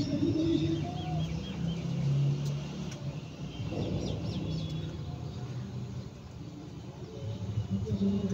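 Outdoor ambience of birds chirping, with a lower drawn-out murmur underneath that comes and goes.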